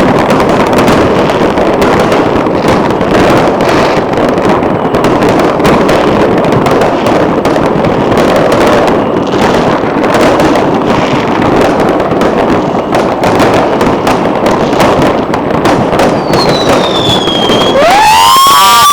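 Many fireworks going off at once: a dense, continuous crackle of overlapping bangs and pops. Near the end, whistling fireworks shriek, one whistle falling in pitch and then another rising and holding.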